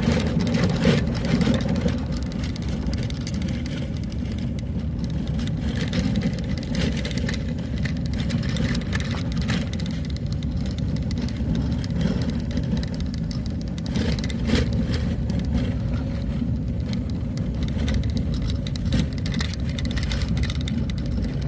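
Vehicle travelling along a road: a steady low engine and road rumble with scattered small knocks and rattles.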